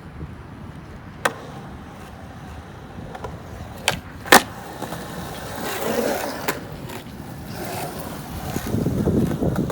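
Skateboard rolling, the wheels giving a steady low rumble that swells twice, broken by several sharp clacks of the board, the loudest a little over four seconds in.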